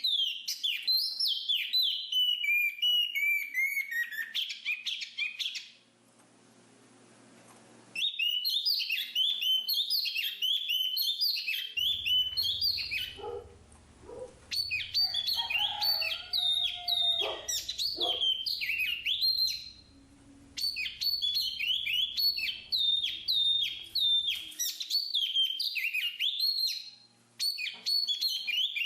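Black-capped babbler singing: long runs of rapid, high chirping notes, broken by a few short pauses, with some lower whistled notes about halfway through.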